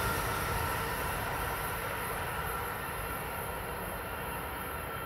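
Amtrak Acela Express high-speed electric trainset running away down the track, its rumble and rail noise fading steadily with distance.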